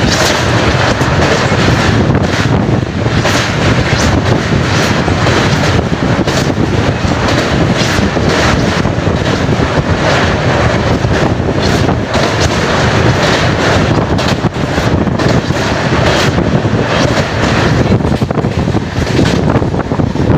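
Wind buffeting the microphone on a moving passenger train, over the train's steady running noise.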